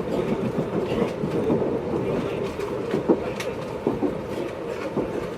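JR 583 series electric train running at speed, heard inside motor car MoHaNe 582-106: a steady rumble of wheels on rail, with a few sharp clicks from the track.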